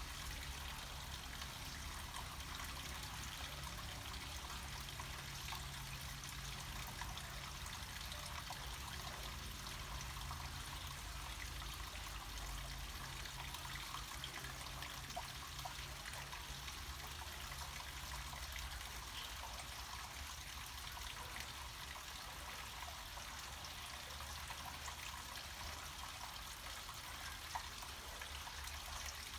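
Small mountain stream of water flowing downhill, trickling steadily, with a low rumble underneath.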